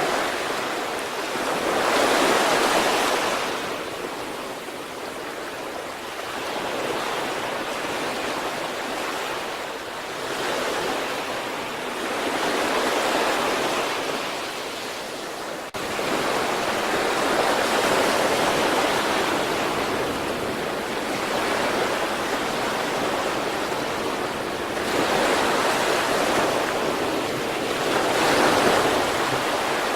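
Sea waves breaking and washing up the shore, a steady rush that swells and eases every few seconds as each wave comes in.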